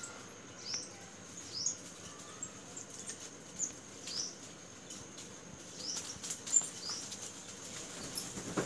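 A bird chirping in short, high, sweeping notes about once a second. Scattered light clicks and rustles sound in between, the sharpest about two-thirds of the way through.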